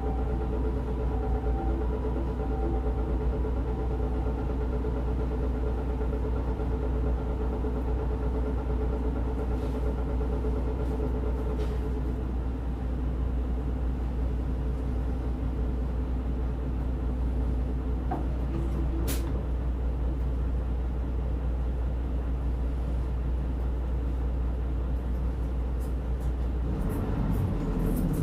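Cabin sound of a Nihon Kotsu route bus on the move: its diesel engine runs with a steady low drone. Near the end the engine note climbs and grows louder as the bus picks up speed.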